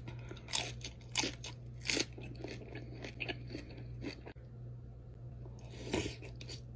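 Close-up mukbang eating of seafood boil food: chewing with sharp crunches, the loudest about six seconds in, over a steady low hum.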